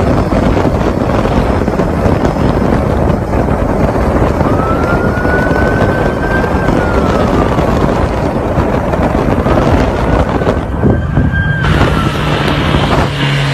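Heavy wind and road rush from a vehicle at speed, with a police siren wailing behind it, rising and falling twice. Near the end the rush cuts off suddenly and a steady low hum takes over.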